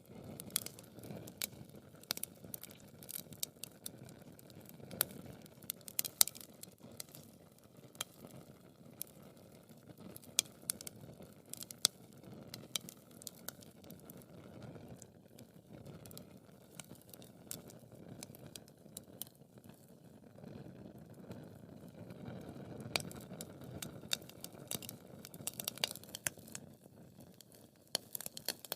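Wood fire crackling in a fireplace: a steady low rush of flame with frequent sharp pops and snaps, a few of them louder.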